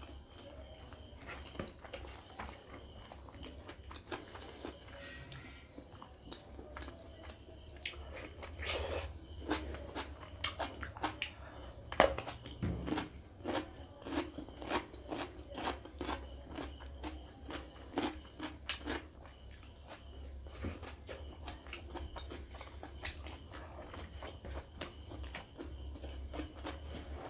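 Close-miked chewing and biting of pork ribs curry with rice, with wet mouth smacks and crunchy bites. The chewing is busiest through the middle, with one sharp loud crunch about twelve seconds in, over a steady low hum.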